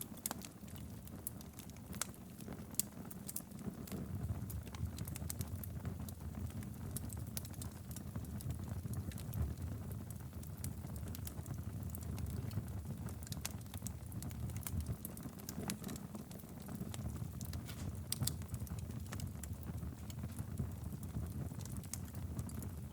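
Wood fire burning steadily in a fireplace: a low rumble of flames with irregular sharp crackles and pops.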